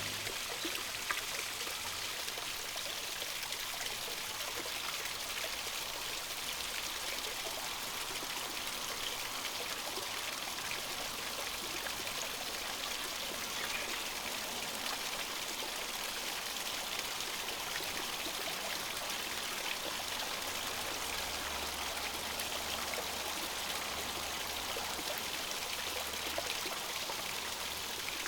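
A small stream flowing and trickling steadily.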